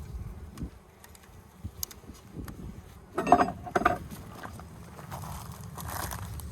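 Honeybees buzzing around an opened colony, a steady low hum, with scattered faint clicks and two short, louder knocks about three seconds in as the hive is handled.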